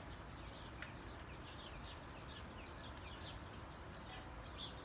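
Small birds chirping faintly in a rapid series of short, falling notes, over a low steady background hiss.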